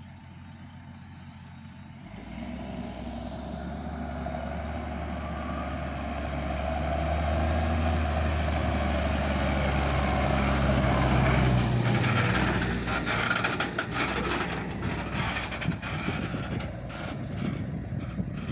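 Heavy diesel farm machinery running, a deep engine drone that comes in and builds steadily louder. About two-thirds of the way through the drone drops away and a busy clatter of knocks and rattles takes over.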